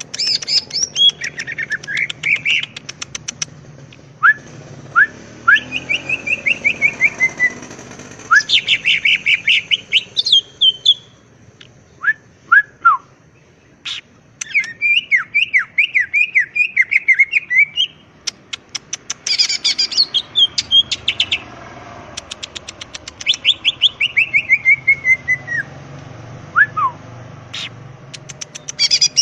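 Cucak ijo (green leafbird) singing a long, varied song. It mixes rapid chattering trills, quick runs of falling slurred whistles and single sharp upward chirps, with brief pauses between phrases.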